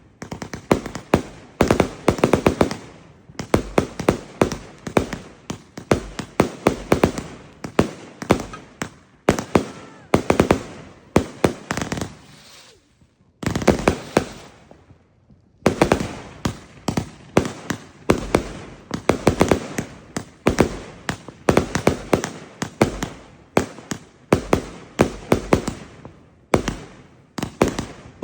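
A 300-shot firework cake firing in rapid volleys: tight clusters of sharp bangs, about one cluster a second. There is a brief lull about thirteen seconds in before the barrage starts again.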